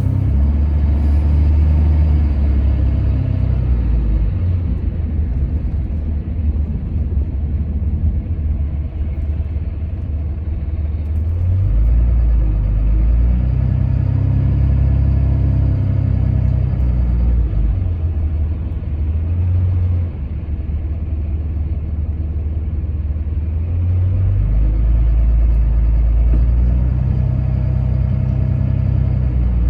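Steady low rumble of a motor vehicle driving, with the engine's hum swelling and easing a couple of times.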